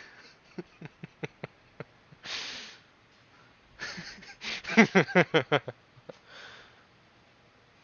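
A man laughing: a breathy exhale, then a quick run of short, breathy laugh pulses, the loudest part, about halfway through. A few light clicks come before.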